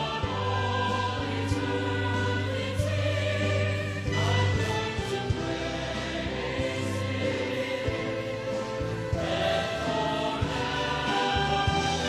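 Worship song with a choir holding sustained chords over orchestral accompaniment and a steady bass line, in a stretch without clear words.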